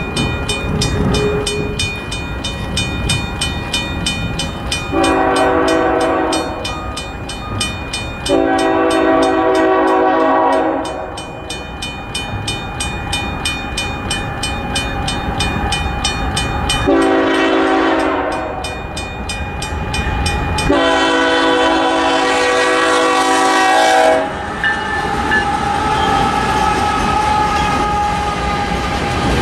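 Grade-crossing bell ringing with a fast, even beat while an approaching freight locomotive sounds its horn for the crossing: four blasts, the third shortest and the last longest. About 24 seconds in the horn stops and the rumble and clickety-clack of freight cars rolling over the crossing takes over.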